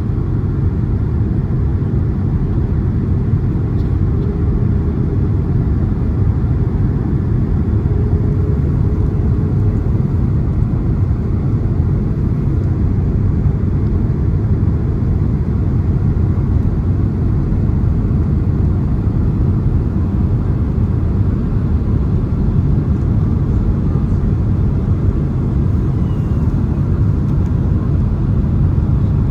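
Steady, deep rumble of airflow and engines inside the passenger cabin of a Boeing 767-300ER airliner in flight.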